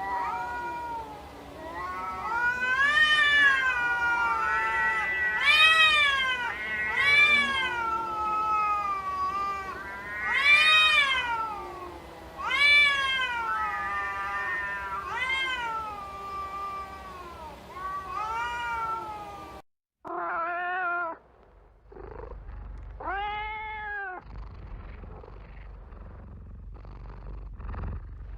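Cats meowing over and over, several long calls overlapping and gliding up and down in pitch. After a sudden break about 20 seconds in, two more single meows follow, then a soft low rumble near the end.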